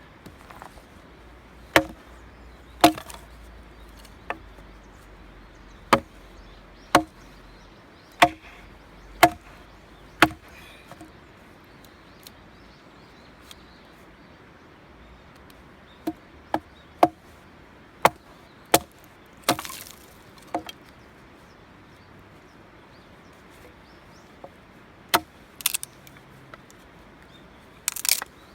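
Firewood being chopped: sharp single blade strikes into wood, about one a second at first, then after a few seconds' pause another run of irregular strikes, and a few more near the end.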